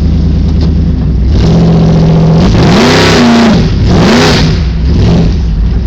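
Car engine running through open headers, idling, then revved twice in quick succession, pitch climbing and falling each time, before dropping back to idle.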